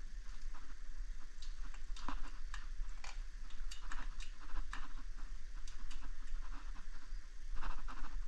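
Burning brush pile crackling: irregular sharp pops and ticks, several a second.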